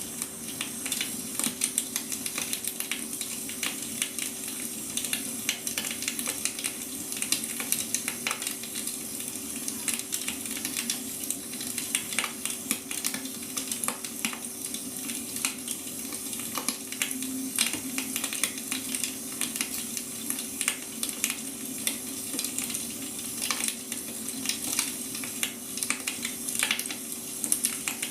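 Firewood burning with steady, irregular crackling and popping, over a constant low hum.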